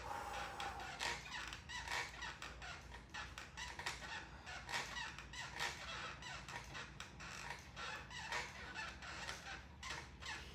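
Stationary exercise bike being pedalled, squeaking and creaking in a repeating rhythm of about one stroke a second over a low steady hum.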